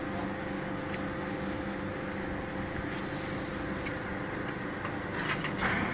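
Vertical cardboard baler's hydraulic power unit running with a steady hum, with a few light clicks and a short burst of hiss near the end.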